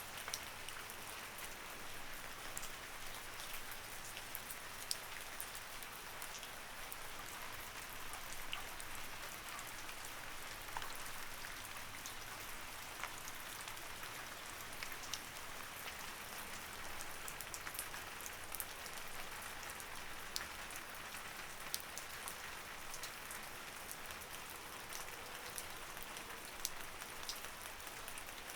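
Light rain falling steadily, a continuous patter with many distinct drops ticking on a surface.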